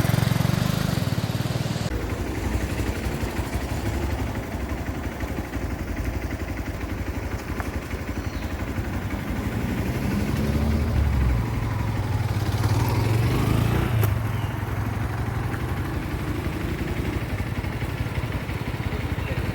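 Motorcycle engine running, a little louder between about ten and fourteen seconds in.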